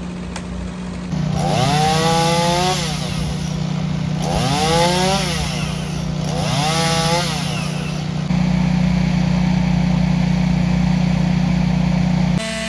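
Two-stroke chainsaw running, rising in pitch three times in short whines, then held steady and louder for about four seconds before it stops abruptly near the end.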